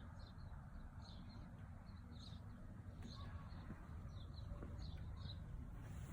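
Small birds chirping: short, high calls repeated every second or so over a faint, steady low rumble.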